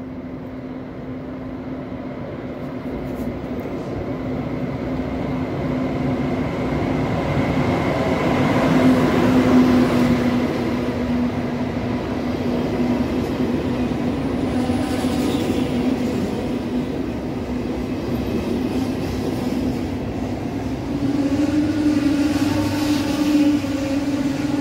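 Deutsche Bahn ICE high-speed train running in along an underground station platform. It grows louder over the first several seconds as it approaches, then rolls past with a steady rumble and hum that shifts up slightly in pitch near the end.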